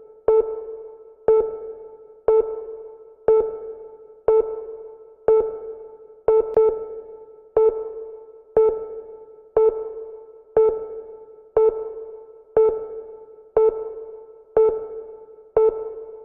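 A single synthesized electric-piano-like note struck about once a second, each stroke dying away before the next. It is a steady countdown tick giving time to think of the answer.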